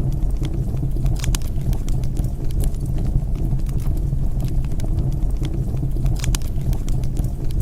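Wood fire burning: a steady low rumble of flames with scattered crackles and pops, and two clusters of sharper pops about five seconds apart.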